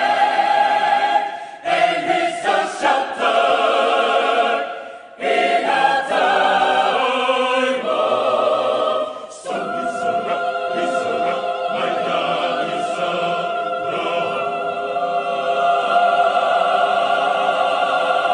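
Mixed adult choir singing in several-part harmony, with short breaks between phrases.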